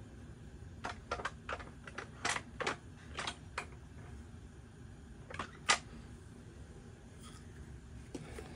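Irregular small clicks and taps of parts being handled on a workbench, in a cluster about a second in and again about halfway through, the sharpest click near the middle.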